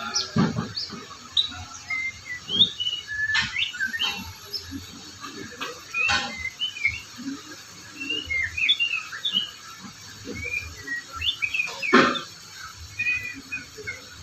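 Murai (white-rumped shama) singing a fast, varied song of short whistles and chirps, broken by a few sharp clicks.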